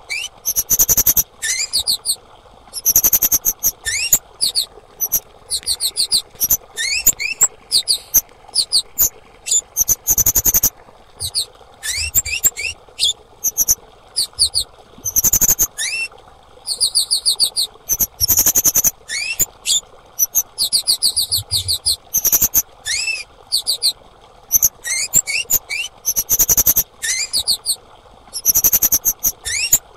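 Female kemade calling: bursts of rapid, very high, sharp chirps every second or two, some with short rising notes, and a few short clicks among them.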